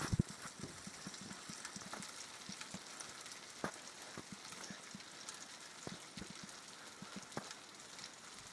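Heavy rain falling steadily, with individual drops clicking sharply close by, and a short low thump right at the start.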